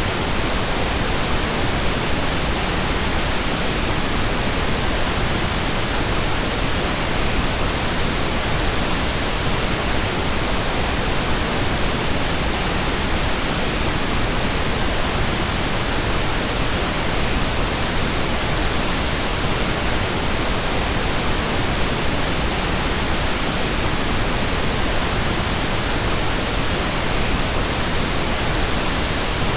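Pink noise: an even, steady hiss across all pitches, fuller in the low end than white noise, with no change throughout.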